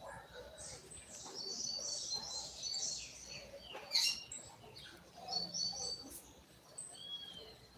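Double-collared seedeater (coleiro) singing its short 'tui tui' song: quick runs of high twittering notes, pausing in the middle and resuming. A sharp click about four seconds in.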